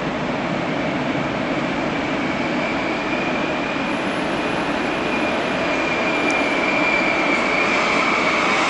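Red double-deck S-Bahn push-pull train rolling into the station, cab car leading, its running noise slowly growing louder. A thin, steady high squeal sets in about three seconds in and holds to near the end.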